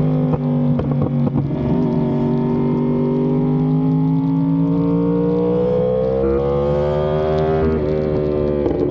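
Yamaha R1M's crossplane inline-four through an SC-Project exhaust, heard onboard at speed on track. After a few quick gear changes in the first second or so, the revs climb steadily for several seconds under hard acceleration, then drop sharply at an upshift near the end and start climbing again.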